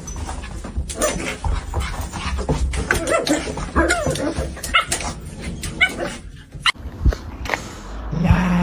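A dog vocalizing in many short sounds, mixed with brief sharp knocks.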